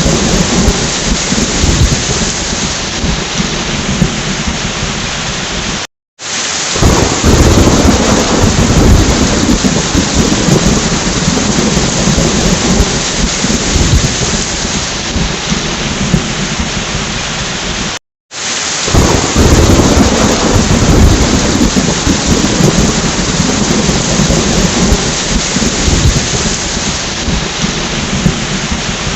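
Steady rain with thunder rumbling. The sound cuts out for a split second about every twelve seconds, as a looped recording restarts, and a swell of low thunder rumble follows each restart.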